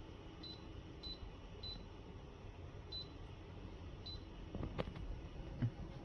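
Short, high electronic beeps, five of them spaced unevenly over the first four seconds, over a low steady hum. Near the end comes a brief clatter, then a low thump.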